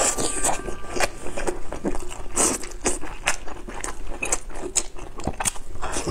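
A person chewing and biting into chewy braised intestines close to the microphone: an irregular run of short, wet smacking and clicking mouth sounds.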